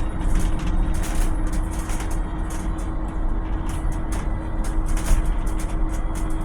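Volvo BZL battery-electric bus running: a steady low rumble with a constant whine held at one pitch, and frequent short, high ticks and rattles.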